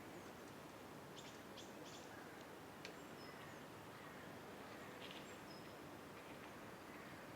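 Faint outdoor morning ambience: a steady soft hiss, with a few short high bird chirps about a second in and again near five seconds.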